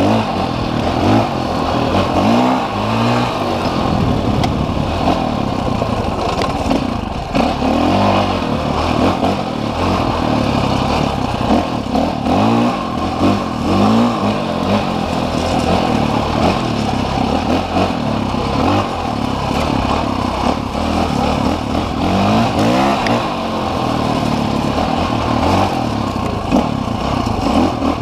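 Off-road motorcycle engine revving up and easing off over and over, with a rise in pitch every second or two, as it is ridden along a trail.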